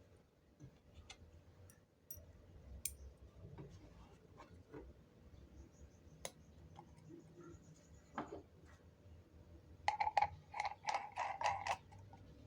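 Scattered light clicks and taps, then a quick run of about eight sharp metallic clinks near the end, from handling the saw blade and its reducer ring while fitting them to the motor arbor.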